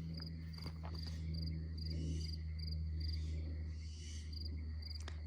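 Crickets chirping in an even, repeating rhythm over a steady low hum.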